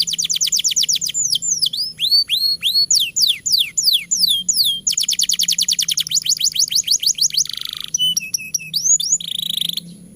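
Domestic canary singing a long, continuous song. Runs of fast downward-sweeping notes, about ten a second, alternate with slower swooping notes and short buzzy phrases. The song stops near the end.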